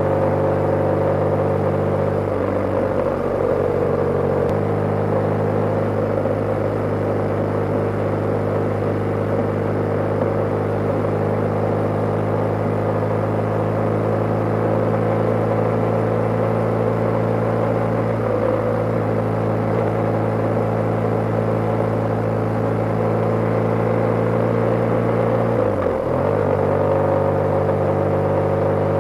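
BMW G/S motorcycle engine running at a steady cruising speed. Its note shifts briefly about three seconds in and again near the end.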